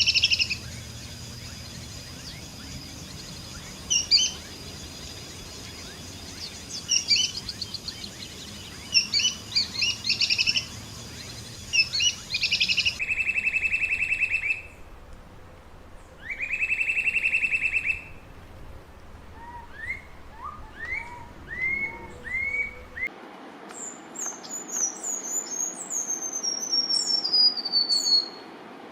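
Wild songbirds singing in several recordings cut together: clusters of sharp chirps, then two long buzzing trills, then a series of short rising whistles, and near the end rapid high notes falling in pitch.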